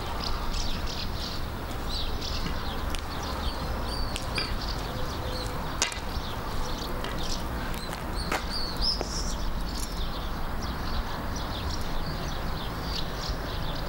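Small birds chirping, many short high calls and little pitch glides, over a steady low rumble of background noise; two sharp clicks sound about six and eight seconds in.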